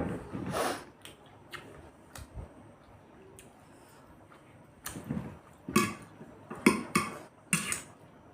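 Cutlery clinking and scraping on plates as people eat chow mein, in scattered short clicks with a few louder clatters in the second half.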